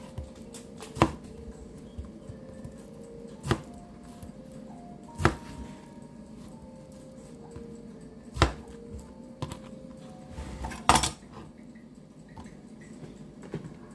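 Kitchenware clinking and knocking, about five sharp hits spaced a few seconds apart, as pots, dishes and utensils are handled, over soft background music.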